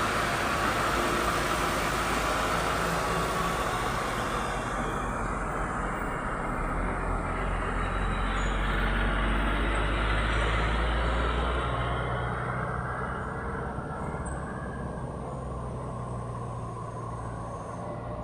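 Heavy truck engine running steadily under load, with road noise above it. The hiss thins out after about four seconds while the low engine drone carries on.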